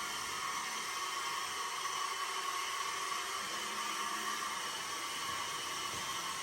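Steady, even hissing noise with no distinct events.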